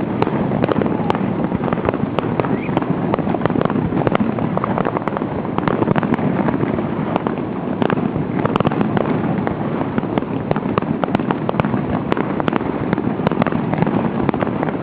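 Fireworks display going off in a dense, continuous barrage of bangs and crackles, with no pauses between shells.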